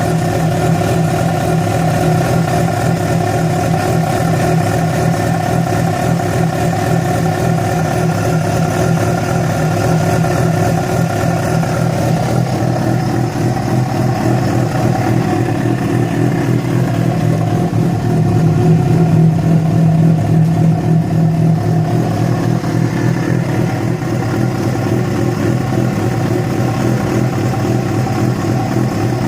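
Yamaha FZ6's 600 cc inline-four engine running steadily at an even speed, growing slightly louder for a few seconds about two-thirds of the way through. This is the strange engine noise that appeared after the bike was ridden about 70 km on two cylinders because of a failed ignition coil connector.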